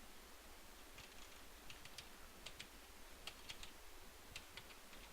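Faint typing on a computer keyboard: irregular keystrokes starting about a second in.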